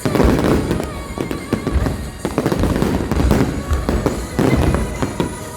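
Aerial fireworks bursting in quick succession, a dense run of booms and crackling with no break.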